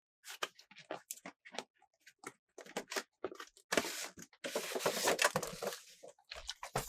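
Hands handling plastic toy packaging close to the microphone: a string of light clicks and taps, with two longer bursts of crinkling near the middle.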